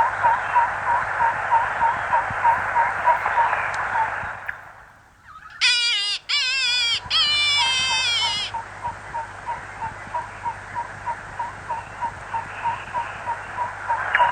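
Animal sounds: a steady series of short chirps, about three a second, over a hiss. This is broken in the middle by a loud, wavering, pitched call in three parts, the last one the longest.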